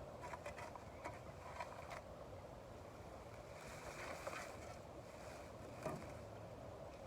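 Faint scrapes and knocks of ash being cleared out of a fire pit and put into a bag, over steady background noise, with the sharpest knock about six seconds in.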